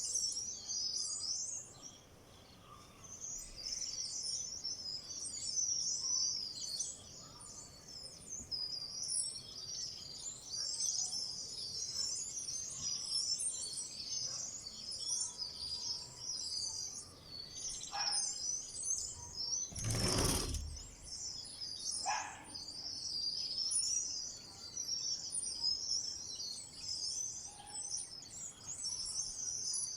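A flock of small wild birds chirping and twittering continuously, many calls overlapping at a high pitch. About twenty seconds in there is a brief, louder rush of noise, with a faint click shortly before and after it.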